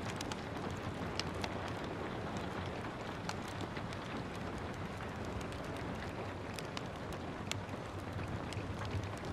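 Steady hiss of gentle rain, with scattered sharp crackles and pops from a wood fire in a fireplace dotted irregularly through it.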